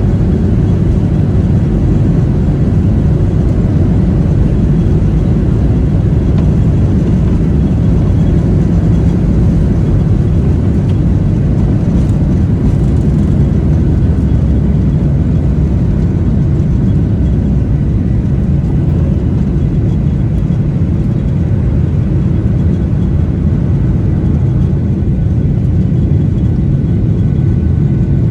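Steady low rumble of jet airliner noise, holding level without rising or falling.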